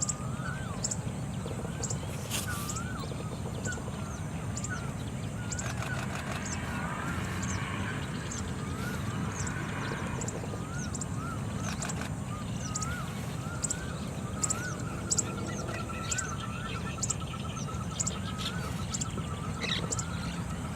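Birds calling: short wavy whistled phrases repeating about once a second, with a rapid even trill from about the middle to near the end, over a steady low rumble of background noise.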